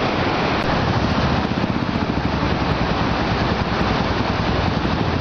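A motorcycle engine running under load through a fast-flowing glacial stream crossing, its rapid engine pulse heard over the steady rush of water.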